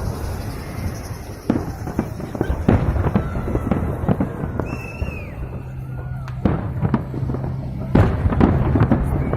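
Fireworks salute going off: a dense run of crackles and bangs, with sharper single bangs scattered through it, the loudest about eight seconds in.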